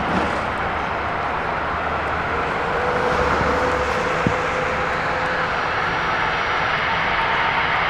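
Jet airliner engines running, a steady rushing noise with faint whining tones. A short click comes about four seconds in.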